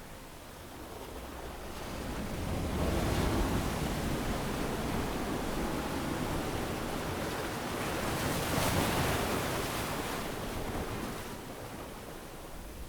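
Ocean waves washing onto a sandy beach: a steady wash of surf that swells about two seconds in, peaks twice, and eases back near the end.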